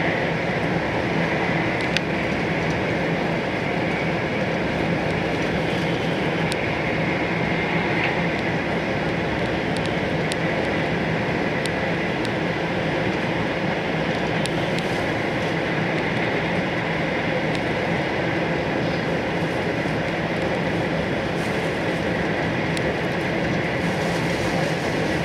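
Interior running noise of an E4 series Max Shinkansen at speed, heard from the upper deck of a motor car: a steady rush and rumble of wheels on rail and air, with a faint steady high tone and a few light ticks.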